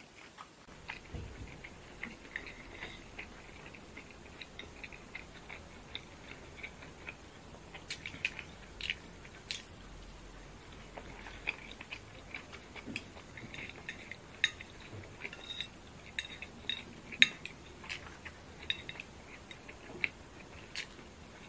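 Close-up chewing and biting of fried potato slices, with soft mouth sounds and scattered sharp clicks of chopsticks tapping a ceramic dish. The loudest click comes about two-thirds of the way through.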